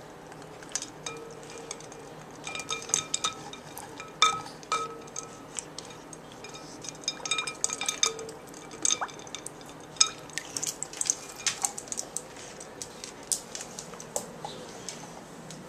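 Ice cubes clinking against a dog's water bowl and knocking about in the water as the dog plays with them: irregular sharp clinks, some with a short ring, coming in flurries.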